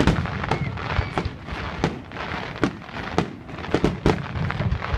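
Display fireworks going off in a quick, irregular series of sharp bangs, about two a second.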